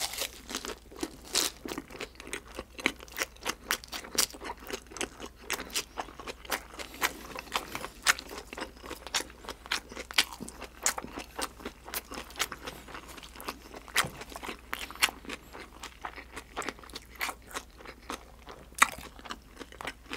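Close-miked chewing of a mouthful of leafy lettuce wrap and sauce-glazed grilled freshwater eel: wet, crunchy mouth sounds with rapid irregular clicks and smacks.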